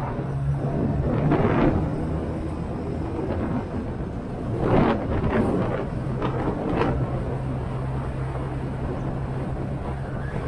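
Motorcycle engine running steadily while riding, with wind rushing over the microphone that swells briefly twice.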